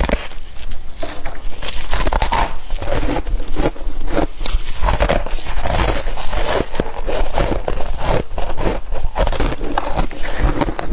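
Flaky freezer frost being chewed close to the microphone: dense, rapid crackling crunches with no pause.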